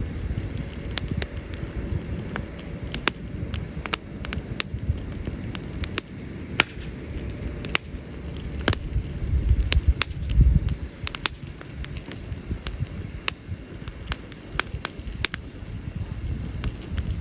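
Wood campfire crackling, with irregular sharp pops and snaps over a low rumble that swells briefly about ten seconds in.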